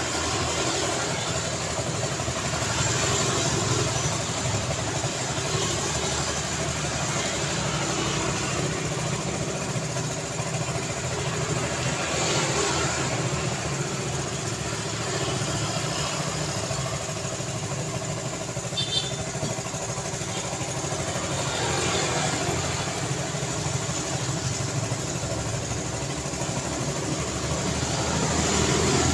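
Continuous road traffic: engines of passing cars and motorcycles and tyre noise blending into a steady roar that swells gently as vehicles come and go.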